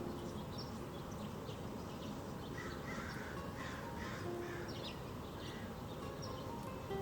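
Several harsh, crow-like calls from a bird about three to four seconds in, over steady high twittering of small birds.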